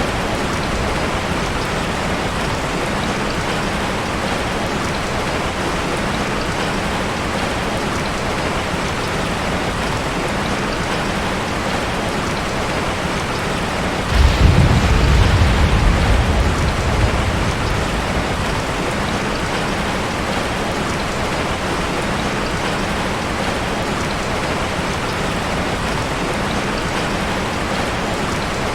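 Heavy rain falling steadily. About halfway through, a rumble of thunder lasts a few seconds.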